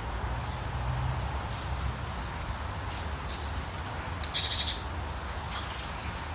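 Steady rain hiss with a low rumble beneath, and a few faint high bird chirps. About four and a half seconds in, a bird gives one short, loud, buzzy trill.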